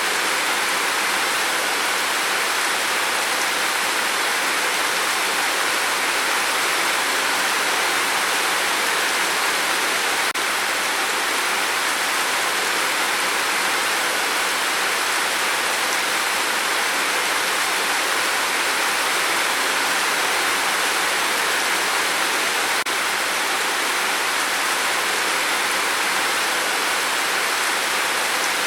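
Steady heavy rain on a tin roof, an even, unbroken hiss of drops.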